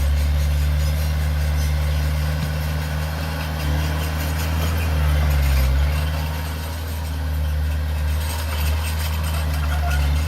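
Heavy construction machine's diesel engine running steadily at a low, even pitch. It swells briefly about five seconds in, then eases off for a moment.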